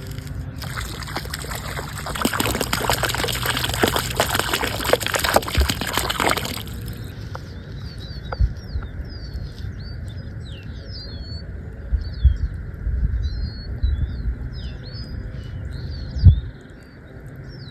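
Water pouring and splashing out of a container into a pond for about six seconds as a catch of small fish is released. After that, birds chirp with a few low thumps, the loudest near the end.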